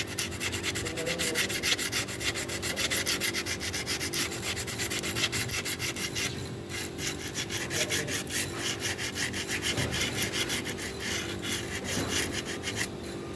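A car brake pad's friction lining being sanded by hand with sandpaper in quick, rhythmic back-and-forth strokes. The sharp edge of the pad is being flattened so that it stops eating into the brake disc and making the brakes squeal. The strokes thin out about halfway through and again near the end.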